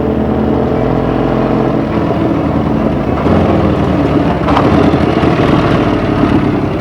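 A classic Triumph motorcycle engine running, growing louder and rougher about three seconds in.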